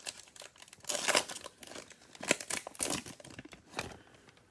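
Cellophane card pack being torn open and crinkled, in a run of irregular crackles that die away near the end.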